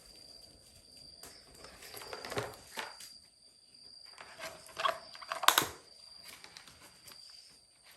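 Irregular light clicks and knocks, loudest about five and a half seconds in, over a steady high-pitched whine.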